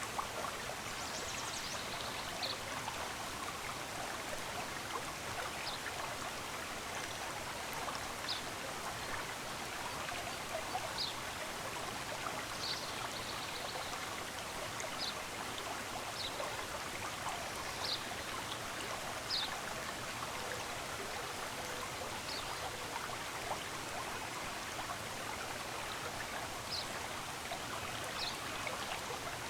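Steady rushing of a flowing stream, with short, high bird chirps every few seconds.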